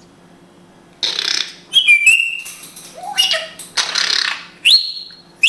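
African grey parrot giving a string of short calls: breathy, noisy squawks mixed with whistles, ending in two sharply rising whistles.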